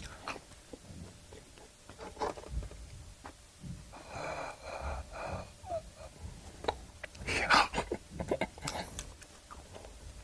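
A person's wheezing, breathy sounds close to the microphone. A pulsing stretch comes about four seconds in, and the loudest breath comes about seven and a half seconds in, among scattered small mouth and eating clicks.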